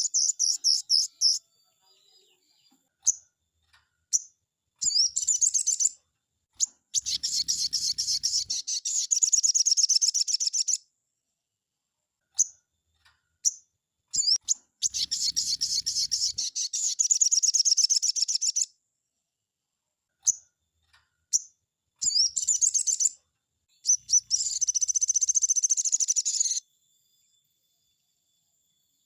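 Crimson sunbird (sogon) singing: long, rapid, high-pitched trilled phrases lasting a few seconds each, broken up by short single chirps and pauses, with the longest pause near the end.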